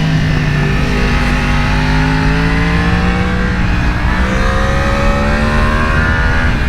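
Sportbike engine pulling steadily under way, its pitch rising slowly, with a small change about four seconds in, over a rush of wind.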